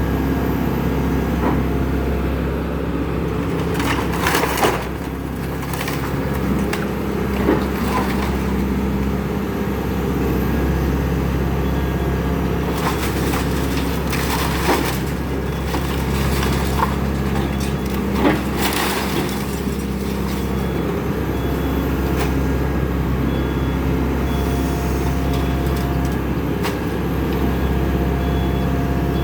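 Excavator's diesel engine running steadily while a house's wooden structure is crushed, with several sharp cracks and splintering of breaking timber.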